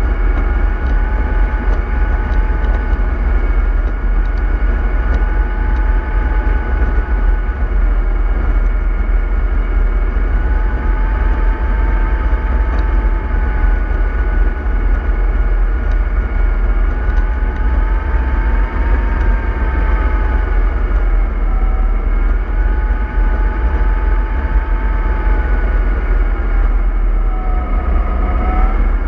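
MAN 24.310 bus running under way: a low engine rumble with a steady transmission whine that wavers slowly in pitch and dips near the end.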